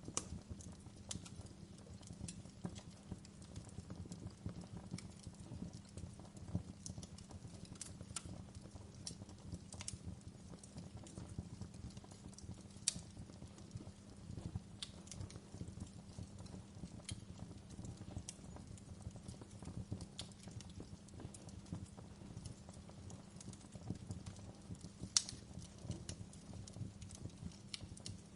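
Campfire burning, with a steady low rumble of flame and irregular sharp crackles and pops from the burning wood; the loudest pop comes about 25 seconds in.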